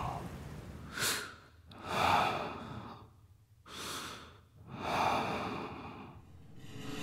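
A man breathing deeply in his sleep: two slow breaths, each drawn in and then let out, with quiet pauses between them.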